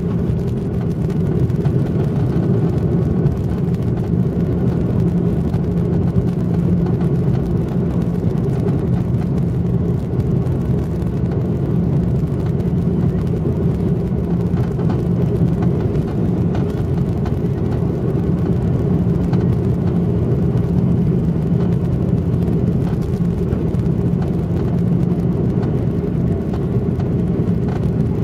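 Jet airliner engine and airflow noise heard from inside the passenger cabin: a steady low rumble that holds even throughout, with no rise or fall.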